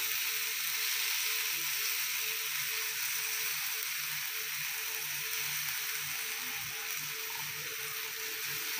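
Cutlets shallow-frying in oil on a cast-iron tawa, a steady sizzling hiss as the freshly turned side browns.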